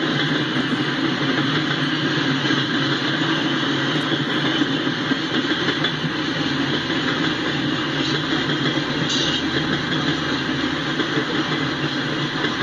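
Norfolk Southern coal hopper cars of a freight train rolling past, a steady noise of wheels on rail.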